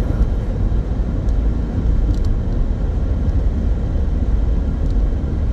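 Steady low rumble of a small car driving along the road, heard from inside the cabin: tyre and engine noise at cruising speed.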